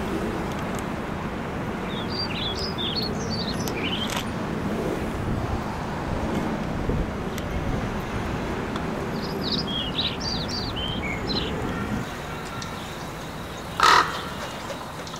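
Two runs of quick, short, high bird calls a few seconds apart, over a steady low rumble of city traffic. A brief loud burst of sound comes near the end.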